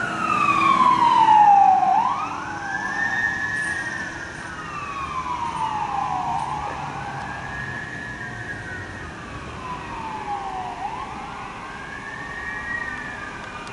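Fire engine and ambulance sirens on an emergency response: a slow wail that rises quickly and falls slowly, repeating about every four and a half seconds, with a second siren fainter behind it. Loudest about two seconds in, then fading.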